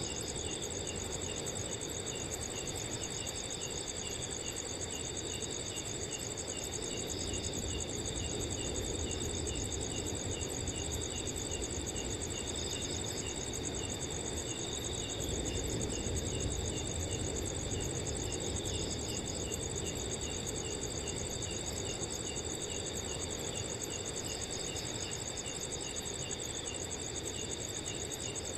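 Several crickets calling at once: a continuous high trill under a rapid, evenly repeated chirp, with other callers coming and going. A soft, steady rush of wind runs beneath them.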